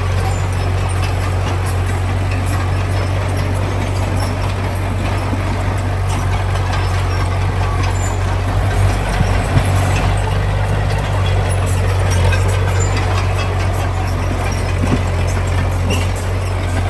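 Heavy diesel construction machinery running steadily, a deep constant engine drone with a couple of brief knocks about halfway through.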